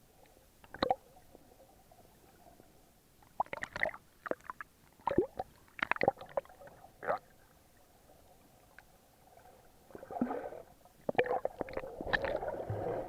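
Water sounds picked up by an action camera in its waterproof housing while snorkeling: a scattering of sharp knocks and splashes, then gurgling and bubbling from about ten seconds in.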